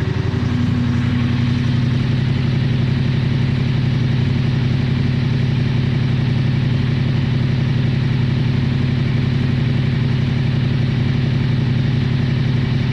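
KTM 1290 Super Adventure's V-twin engine idling steadily.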